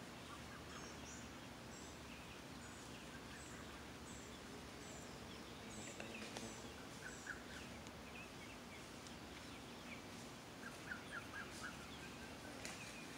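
Faint birds calling over quiet outdoor background hiss. Short high chirps repeat about twice a second through the first half, and a quick run of lower notes comes about seven seconds in and again near eleven seconds.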